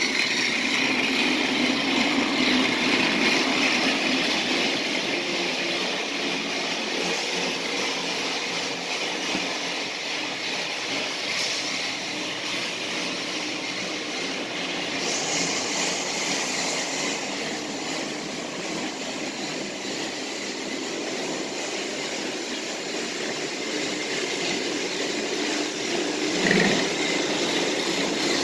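Battery-powered Tomy Plarail toy train running on its plastic track: a steady whir of its small motor and gears with the rattle of the wheels. It grows a little quieter through the middle and louder again near the end.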